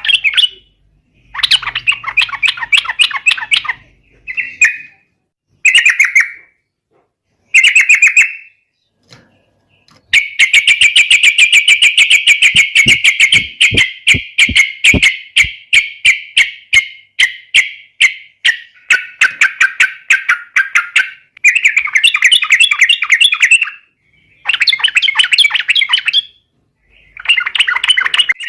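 Yellow-vented bulbul (trucukan) singing loudly in short bubbly phrases separated by brief pauses. In the middle comes a long, fast run of sharp repeated notes, the rapid continuous song kept birds call 'ropel'.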